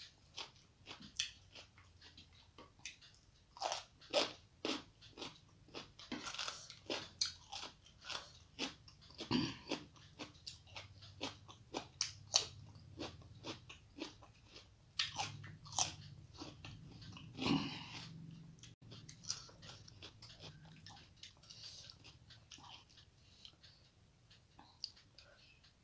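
A person chewing and biting mouthfuls of rice and curry eaten by hand, close to the microphone: an irregular run of sharp mouth clicks and crunches, several a second.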